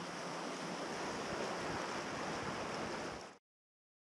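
Steady rushing water noise, cutting off suddenly about three seconds in.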